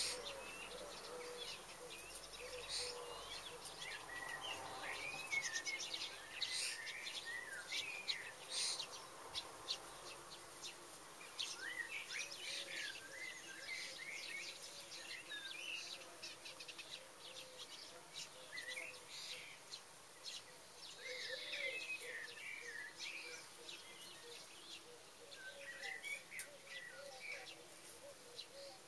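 Birds chirping and twittering, with many short, quick calls that rise and fall in pitch and come in scattered bunches throughout.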